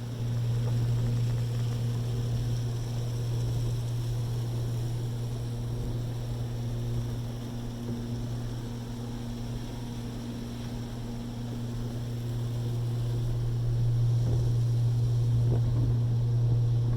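Car wash machinery running: a steady low drone with a faint hiss above it, growing a little louder in the last few seconds.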